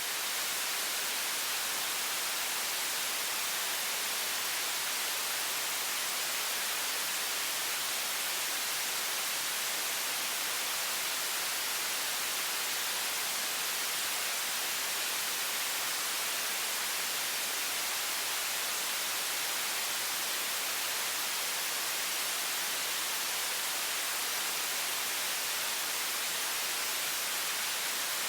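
Water faucet running at high pressure: a steady, unbroken hiss weighted toward the high end.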